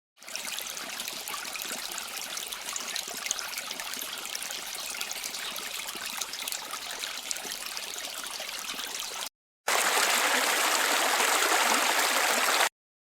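Running water with a steady hiss, in two separate recordings: about nine seconds of flowing water, a brief cut to silence, then about three seconds of louder, fuller-sounding flowing water that stops abruptly.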